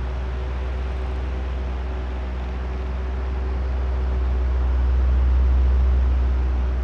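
Oscillating electric fan running: a steady rush of air over a low motor hum with faint steady tones, swelling louder about halfway through and easing off near the end as the head turns toward and away.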